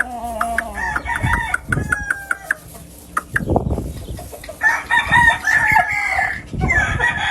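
Gamefowl roosters crowing and chickens clucking, with one long crow lasting over a second about five seconds in. A few low thumps come in between the calls.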